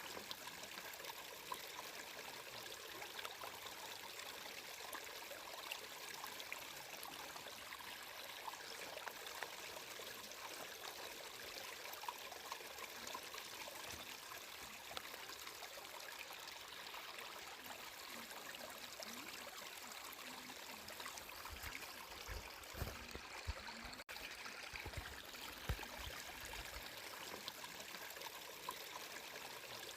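Water flowing steadily, like a trickling stream, with a few brief louder splashes scattered through.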